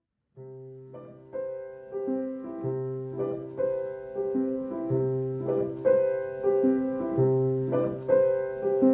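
Gentle piano music: a calm, repeating pattern of notes over a low bass note, starting from silence and growing louder as it goes.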